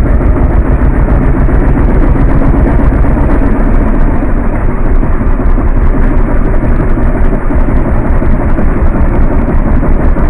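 Yamaha WR250F dirt bike's four-stroke single-cylinder engine running while riding, loud and uneven, with a heavy rumble that rises and falls rapidly throughout.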